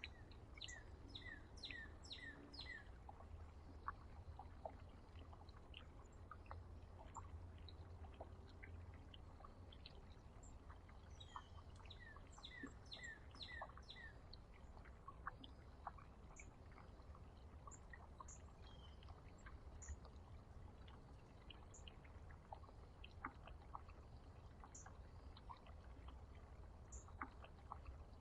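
Songbirds calling, faint: one bird gives two short runs of about five repeated down-slurred notes, about a second in and again around twelve seconds in, amid scattered short chips and clicks, over a low steady hum.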